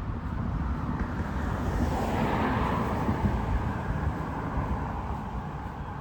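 A car passing by on the street: its tyre and engine noise swells to a peak about two to three seconds in, then fades away, over a low wind rumble on the microphone.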